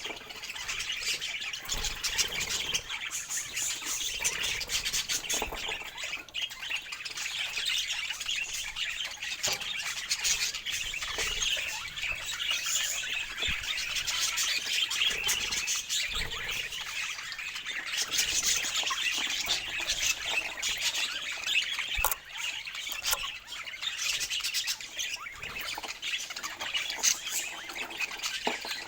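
A group of parakeets chattering and squawking together, with many short calls overlapping without a break.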